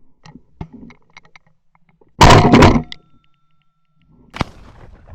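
A shotgun shot fired at a flushed game bird, a single very loud blast about two seconds in that drops a bird, followed about two seconds later by a short sharp click.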